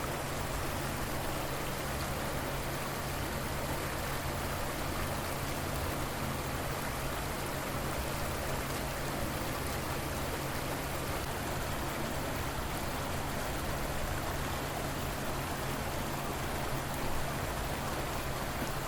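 River water flowing in a steady, even rush, with a faint steady low hum underneath.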